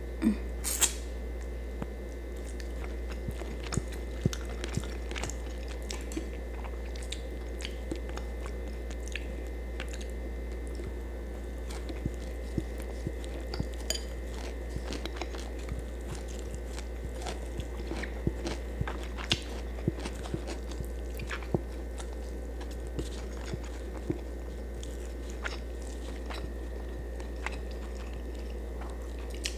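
Close-up chewing and biting of fried fish, with many small sharp mouth clicks and crunches scattered throughout, over a steady low hum.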